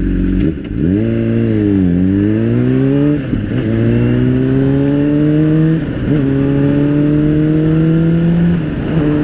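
Motorcycle engine accelerating up through the gears. The pitch falls briefly and then climbs, and it drops at upshifts about three, six and nine seconds in, rising steadily in each gear between them.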